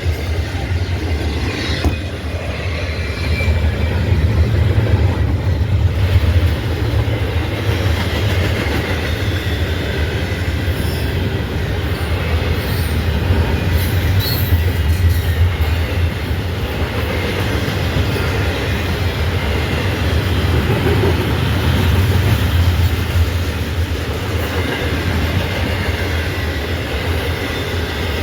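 A train rolling past, its wheels clicking over the rail joints and squealing, over a steady low rumble.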